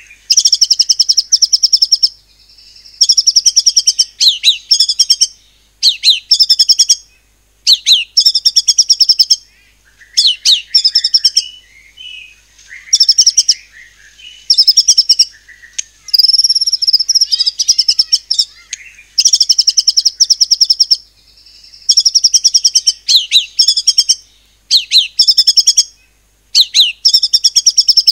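White-rumped shama (murai batu) singing loud 'tembakan' phrases: bursts of very rapid repeated high notes, each burst about one to two seconds long, a dozen or so with short pauses between.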